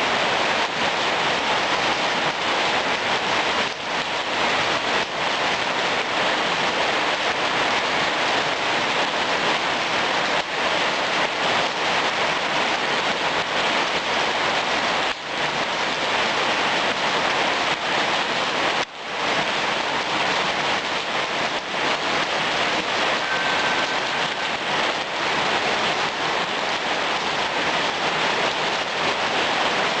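Heavy rain pouring down in a steady, dense hiss, with a few brief dips in level.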